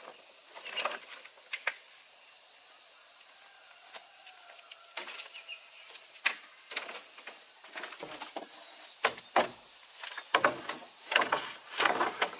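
Steady high-pitched insect chorus, with irregular knocks, clicks and rustling from handling material, coming more often and louder in the last few seconds.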